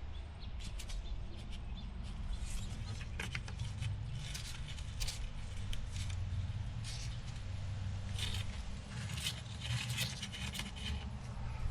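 Metal parts and hand tools clinking and scraping in a run of short, irregular clicks, over a steady low hum.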